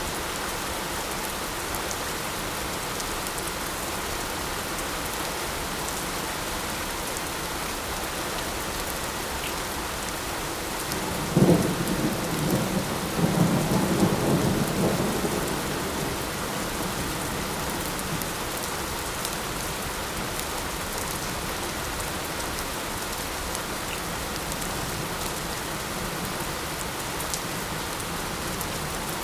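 Steady light rain falling, with a clap of thunder about eleven seconds in that starts sharply and rolls on low for four or five seconds before fading back into the rain.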